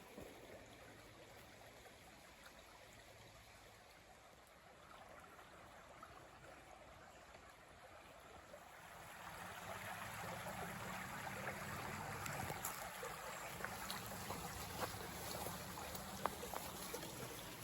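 Salmon River water flowing, a steady rush that grows louder about halfway through.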